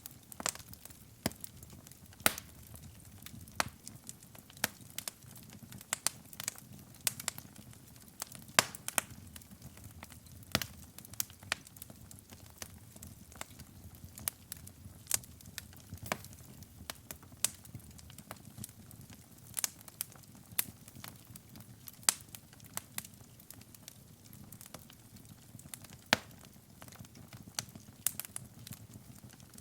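Wood fire burning in a fireplace: irregular sharp crackles and pops over a low steady rumble of the flames, a few pops much louder than the rest.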